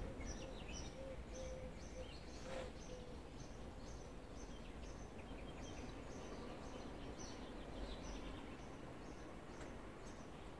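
Faint outdoor ambience of birds chirping over a low steady rumble, one high chirp repeating two or three times a second throughout.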